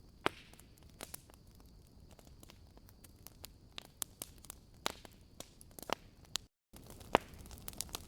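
Campfire crackling: irregular sharp pops and snaps over a faint steady hiss. There is a louder pop just after the start and another about seven seconds in, with a split-second gap of total silence just before the second.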